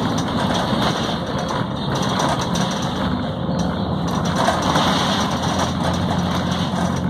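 Volvo B7RLE city bus's six-cylinder diesel engine running, heard from inside the bus over a steady wash of road noise.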